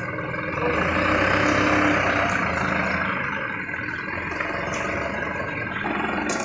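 Mitsubishi Canter dump truck's diesel engine running steadily, growing louder and rougher for a couple of seconds about a second in.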